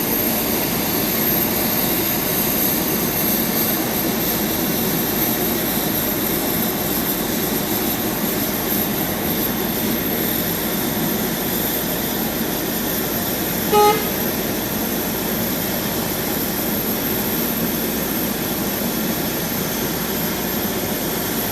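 Airliner engine running steadily on the ground as an even, unbroken drone. About two-thirds of the way through there is one short horn-like beep.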